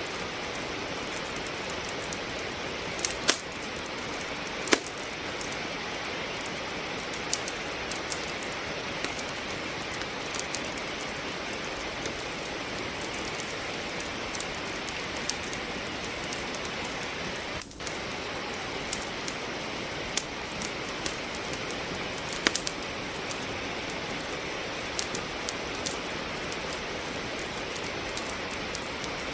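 Steady rain hiss with a wood fire crackling over it: scattered sharp pops and snaps from burning logs, the two loudest a few seconds in.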